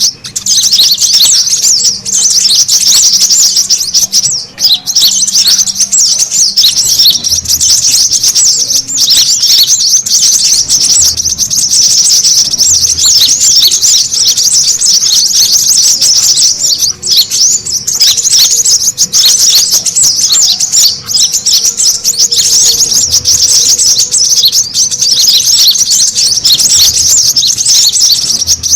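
Lure recording of brown-throated sunbirds (kolibri kelapa) calling noisily: a dense, unbroken stream of high, rapid chirps and twitters.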